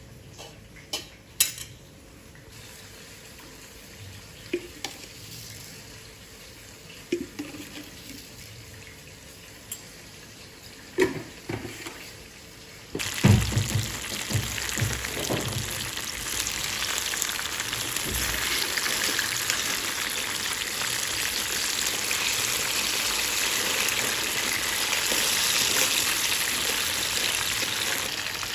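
A few light knocks and clicks of kitchen handling, then about halfway through food goes into hot oil with a thud and sizzles steadily as it fries.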